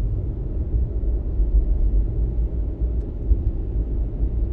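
Fox-body Mustang engine on closed throttle, running down from about 1,800 rpm to an 800 rpm idle as a steady low rumble. The Ford idle air control valve is held almost shut, so the idle air comes through the throttle body alone.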